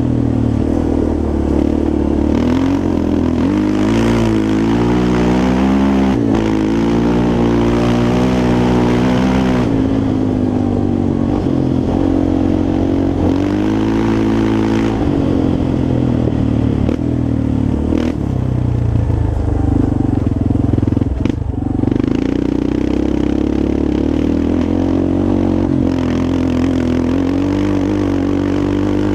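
Yamaha Raptor 350 quad's single-cylinder four-stroke engine revving up and down over and over as it is ridden, with a few short knocks and clatter.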